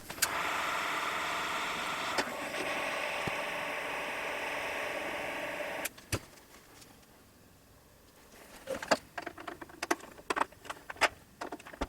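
A small electric tool motor runs steadily for about six seconds and stops suddenly, working on a stripped, Loctited Phillips screw. After a short pause comes a run of irregular clicks and scrapes of metal on the screw head.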